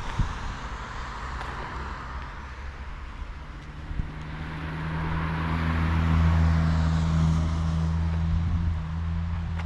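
BMW M3 F80's twin-turbo inline-six with an M Performance exhaust, running at a steady low engine speed. It drones more strongly from about three seconds in, peaks around the middle, then eases a little near the end. A couple of short knocks are heard early on and about four seconds in.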